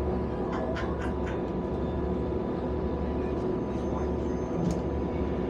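Passenger train running, heard from inside the carriage: a steady low rumble and hum with a few constant tones, and light clicks and rattles about a second in and again near the end.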